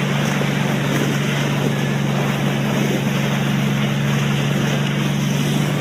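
A vehicle engine drones at a steady, unchanging pitch under a constant rush of wind on the microphone.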